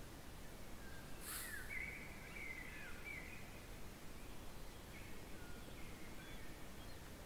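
A bird singing: a run of short whistled phrases, some sliding in pitch, for about two seconds from a second in, then a few fainter phrases around five to six seconds in, over a steady background hiss. A brief scratchy sound comes at the start of the first phrases.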